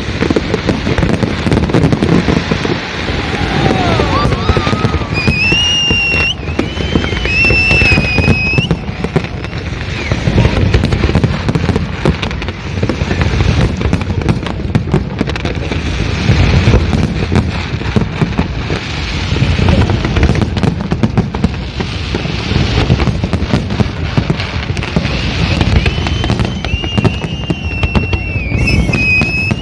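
Fireworks going off continuously, a dense run of bangs and crackles with no pause. High whistling tones rise above them a few seconds in and again near the end.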